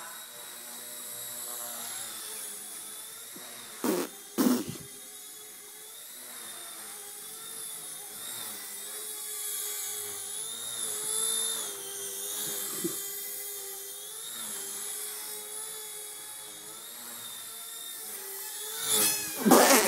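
Blade mCP X micro RC helicopter in flight: a high electric motor and rotor whine that wavers up and down in pitch as the throttle changes. There are two sharp knocks about 4 seconds in, and a louder burst of noise near the end.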